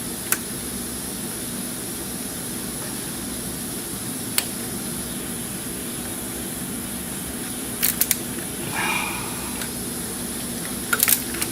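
A few short, sharp clicks of hand work on a brittle plastic hose connector at the thermostat housing, over a steady background hum.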